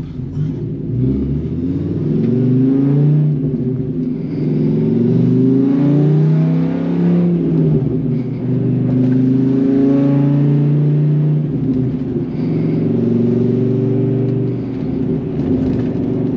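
Dodge Ram SRT-10's Viper V10 engine with an aftermarket exhaust, accelerating through the gears of its manual gearbox. The revs climb, drop back at each gear change, and climb again, about four times.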